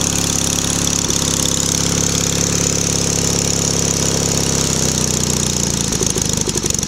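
Small gasoline engine running steadily; about five seconds in its speed sags and it starts to run unevenly, stumbling. This is typical of a fuel problem, which the owner says the engine is developing.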